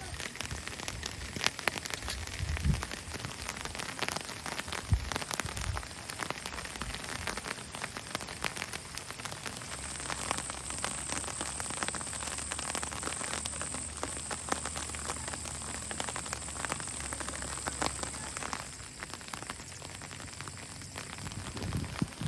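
Rain falling, with many separate drop hits heard throughout. A steady hiss joins for several seconds in the middle.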